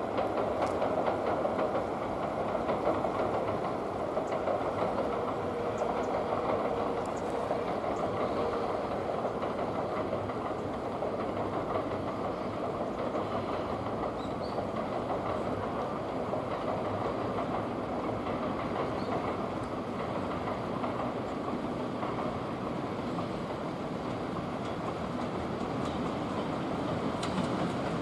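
Train running past on the Hakubi Line: a steady rolling noise of wheels on rails, a little louder in the first few seconds.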